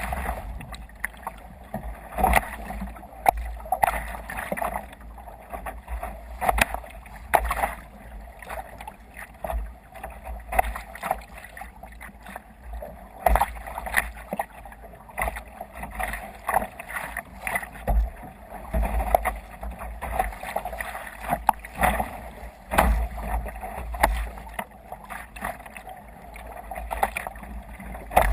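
Waves slapping and splashing irregularly against a sea kayak's hull under sail, with wind buffeting the microphone.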